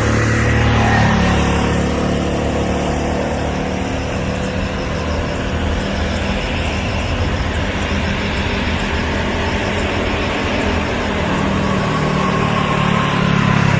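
Jet airliner engines running, a steady loud rumble with a faint whine that slowly shifts in pitch.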